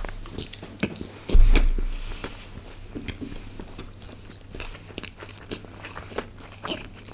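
Close-miked biting and chewing of a mouthful of pizza: soft wet mouth clicks and smacks. There is one low thump about a second and a half in.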